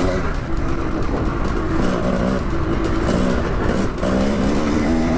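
Dirt bike engine revving up and dropping back several times as the rider works the throttle around the track, over heavy wind rumble.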